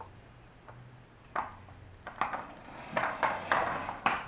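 Hard toys knocking and clattering against each other and a hard surface, in a string of about seven sharp knocks that come more often toward the end.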